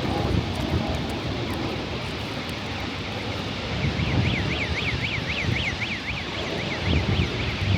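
Outdoor city ambience: a steady rumble of traffic. In the middle stretch, a quick run of high chirps, each rising and falling, comes about five times a second for some three seconds.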